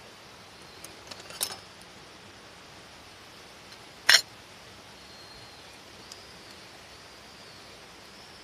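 Steady rain falling. A few small clicks come about a second and a half in, and one loud, sharp knock about four seconds in.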